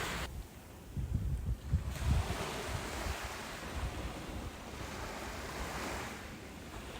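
Ocean surf on a beach: a low rumble as a wave breaks about a second in, then the hiss of water washing in, which swells and eases off near the end.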